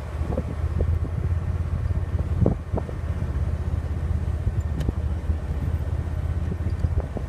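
Steady low rumble of a running vehicle engine, with a few short faint knocks.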